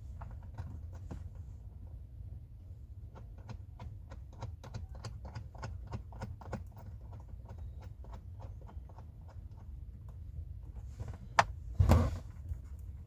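Hand tools working a metal brake-line fitting: a quick run of light clicks, about four a second, from about three to ten seconds in, then two louder clanks near the end, over a steady low hum.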